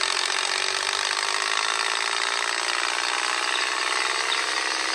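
Tractor engine running with a harsh buzz, its pitch slowly falling over the few seconds.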